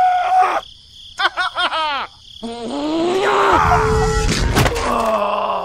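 Squeaky, pitch-shifted cartoon character voice giving short wordless cries, then a longer wailing cry over a low crashing thud with a few sharp knocks a little after the middle.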